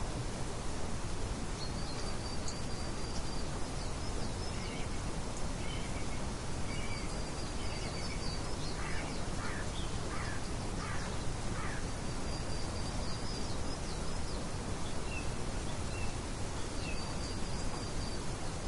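Birds singing over a steady background hiss: one bird repeats a short high trill about every five seconds, with scattered short chirps between and a run of four quick lower calls about halfway.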